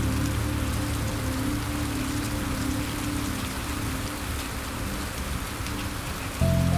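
Steady rain falling on a surface, an even hiss with scattered individual drops, under soft sustained low music chords that fade away; a new chord comes in near the end.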